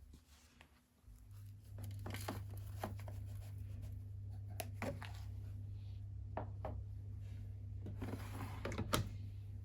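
Beko WML 71433 NP washing machine running early in its cycle: a steady low hum that stops for about a second near the start and then comes back, with scattered clicks and swishing noises from inside the drum.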